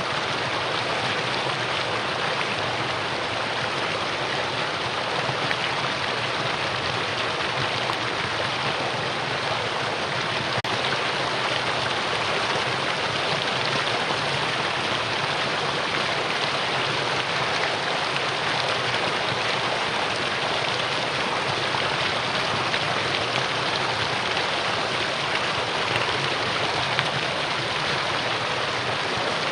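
Mountain valley stream running steadily, an even, unbroken rush of water.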